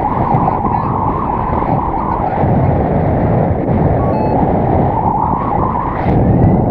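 Strong wind buffeting the microphone in paraglider flight: a loud, steady rushing rumble.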